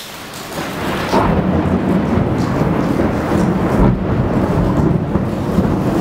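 Rain falling, then a long roll of thunder that builds about a second in and keeps rumbling deep and steady.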